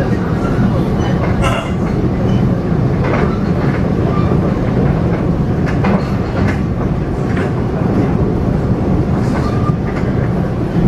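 Taiwan Railway EMU500 electric multiple unit running at speed, heard from inside the passenger car: a steady low rumble of wheels on rail, with irregular clicks from the track.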